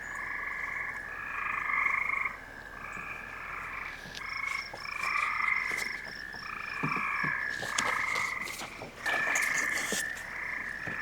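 A chorus of frogs calling, many overlapping repeated calls with a steady trill beneath them. A few short clicks sound near the end.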